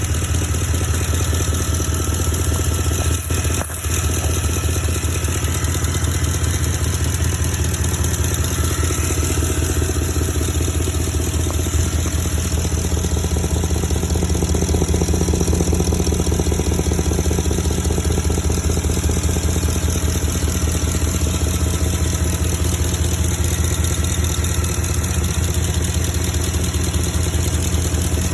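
A 2012 Porsche Cayenne S's 4.8-litre V8 idles steadily, with a brief drop in level a little over three seconds in. The owner puts it forward as an engine problem without naming what is wrong.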